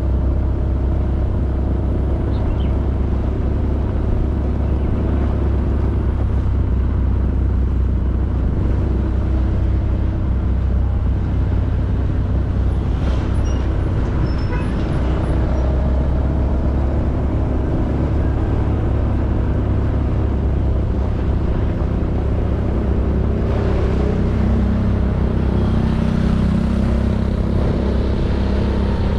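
Honda Beat 110cc scooter's single-cylinder engine running steadily while riding, under a constant low rumble of road and wind noise.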